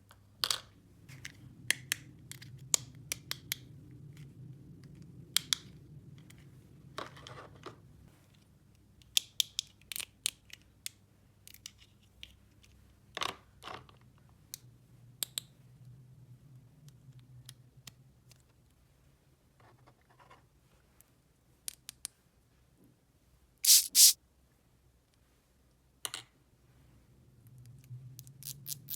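Scattered light clicks, taps and short scrapes of small objects being handled, with two louder scrapes in quick succession about two-thirds of the way through, over a low steady hum.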